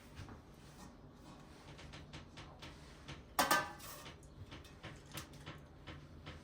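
Dishes and utensils being handled: light scattered clicks and clinks, with one louder ringing clatter about three and a half seconds in.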